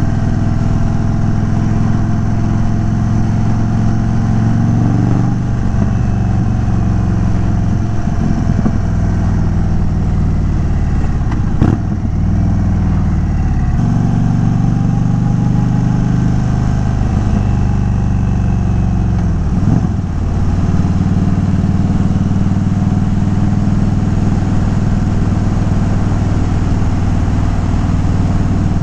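2022 Indian Chief Dark Horse's air-cooled V-twin running under way through an unbaffled Dean Speed Rampage exhaust. The engine note shifts a few times, with brief dips about 12 and 20 seconds in, as from gear changes.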